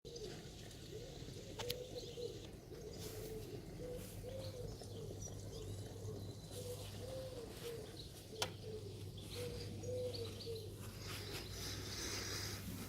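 A dove cooing over and over in short, rounded low phrases, with two sharp clicks, one early and one a little past the middle, and some higher chirping near the end.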